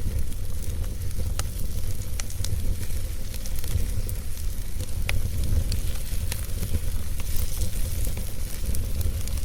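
Fire crackling, with scattered sharp pops every second or so over a steady hiss and a low rumble.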